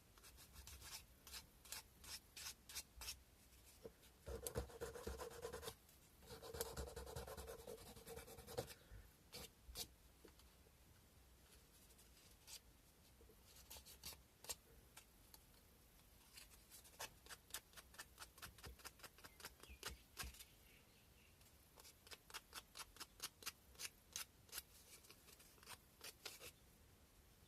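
Sandpaper rubbing by hand on a carved cow-bone fish hook: faint, quick back-and-forth strokes in bursts, with two longer, steadier rubs about four to nine seconds in.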